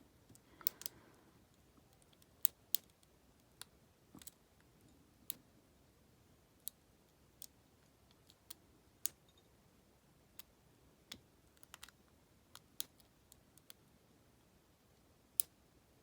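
Small, sharp metallic clicks at irregular intervals, roughly one a second, from a single-pin pick and tension wrench working the pins and warding inside an Abus 74/40 aluminium-bodied padlock.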